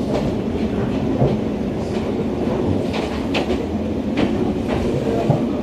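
Inside a running JR 103 series electric train car: steady rumble of the ride, with the wheels clicking over rail joints several times between about three and five seconds in.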